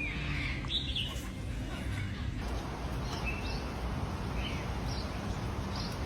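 Short high chirps, scattered and bird-like, over a steady low background rumble of noise. The recording changes abruptly about two seconds in.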